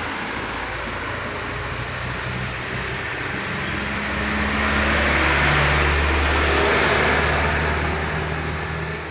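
Heavy truck's diesel engine pulling at full throttle in a low gear on a steep bend as it passes, a deep steady drone that grows louder to a peak past the middle and then fades, over tyre and road noise.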